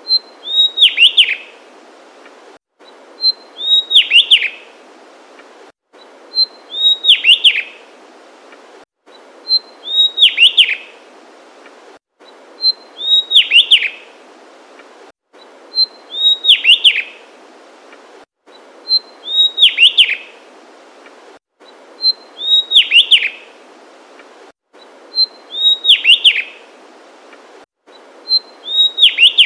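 Javanese tesia singing the same short phrase over and over, about every three seconds: a thin high opening note, then a quick run of sweeping, falling whistles.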